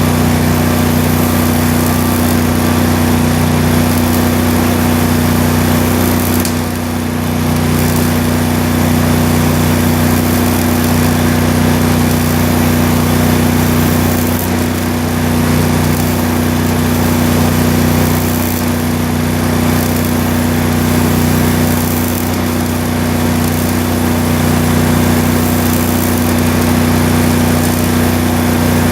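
Welding in progress: a steady machine hum under the dense crackling hiss of the welding arc, which breaks off briefly about seven seconds in.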